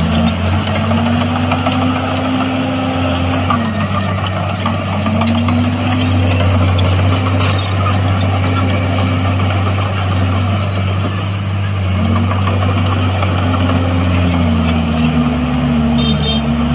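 Bulldozer's heavy diesel engine running under load, its pitch repeatedly rising and dipping every few seconds as the throttle is worked, changing more quickly near the end.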